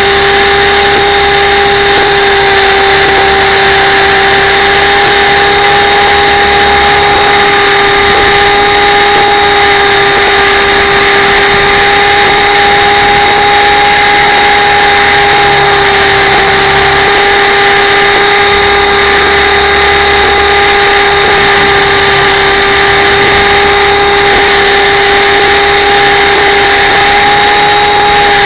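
RC camera helicopter's motor and rotors whining at a steady, unchanging pitch, loud and close as heard from the camera on board.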